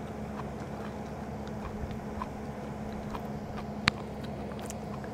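Faint crunching as a raw okra pod is bitten and chewed, with one sharp click a little under four seconds in, over a steady low hum.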